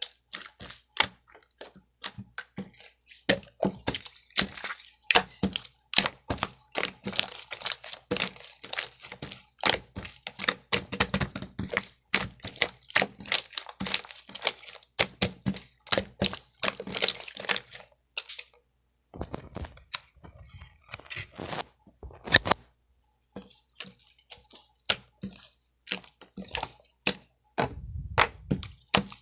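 Rapid, irregular crisp clicks and crunches close to the microphone, several a second, thinning to scattered clicks after a short break about two-thirds of the way through.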